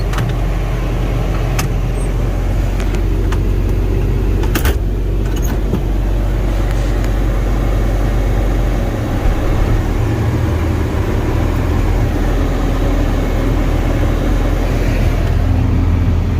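Tractor engine running steadily, its low note shifting slightly about nine seconds in, with a couple of sharp clicks in the first few seconds.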